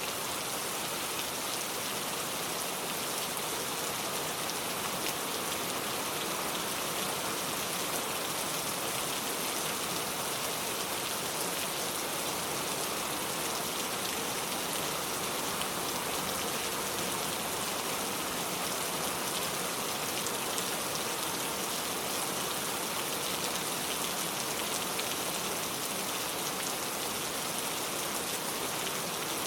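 Steady rain falling, an even patter of drops on surfaces with no change in intensity.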